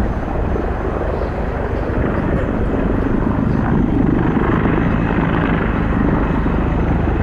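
Sikorsky CH-53K King Stallion heavy-lift helicopter in flight: steady rotor beating over turbine engine noise, growing louder about two seconds in.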